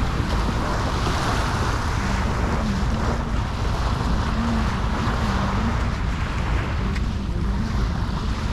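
Wind buffeting the microphone over the steady wash of sea waves on a beach, with a faint wavering tone underneath.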